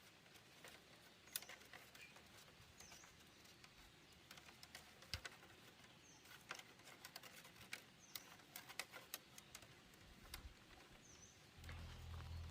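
Faint scattered clicks and taps, with a short high bird chirp repeated about every second and a half. A low steady hum comes in near the end.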